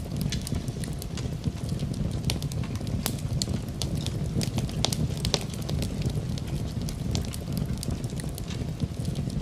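Wood fire burning: a steady low rumble of flames with irregular sharp crackles and pops throughout.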